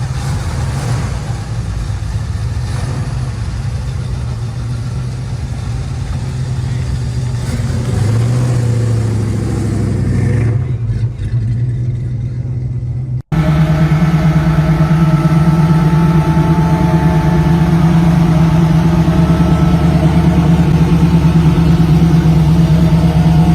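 Big-block V8 muscle car engine running with a deep rumble, revving up briefly about eight seconds in. After a sudden cut about 13 seconds in, a louder hot rod engine runs steadily close by.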